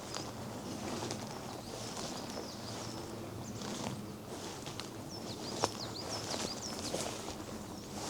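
Small birds chirping in woodland: quick, high, short notes that come thickest in the middle. Beneath them are steady footsteps on a forest path, and a single sharp tick a little past halfway.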